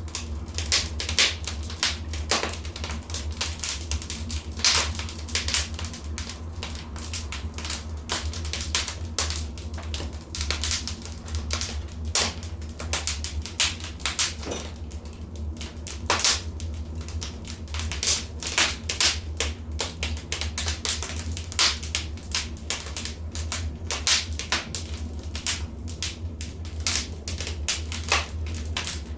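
Wood fire in a fireplace crackling, with quick irregular pops and snaps over a steady low rumble.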